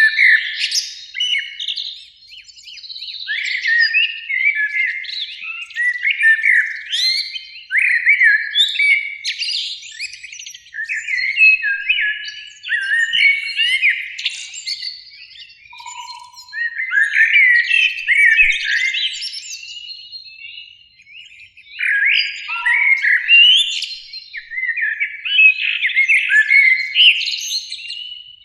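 Common blackbirds singing: phrases of warbled and twittering notes, one after another with short pauses between them.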